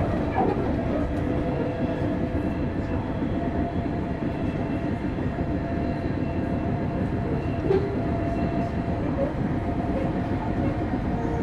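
Running noise inside a Sotetsu New 7000 series motor car with a Hitachi GTO-VVVF inverter, moving steadily between stations: wheel-on-rail rumble with steady traction-motor whine tones. This motor car is known for an unusual motor noise.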